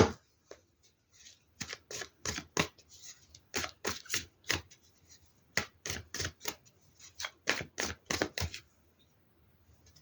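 A tarot deck shuffled by hand: a run of quick, irregular card slaps and flicks that stops about a second and a half before the end.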